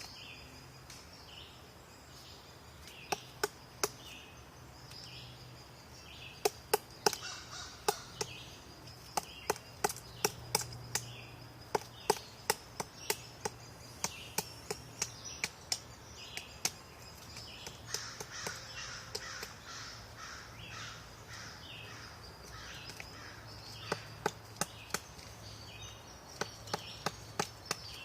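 Woodpecker pecking at wood: sharp single taps in irregular runs of several a second, with pauses of a second or more between runs.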